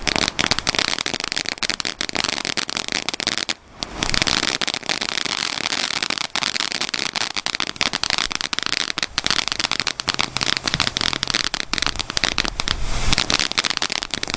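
Multi-shot consumer fireworks display firing continuously: a dense run of crackling and popping, with one brief lull about three and a half seconds in.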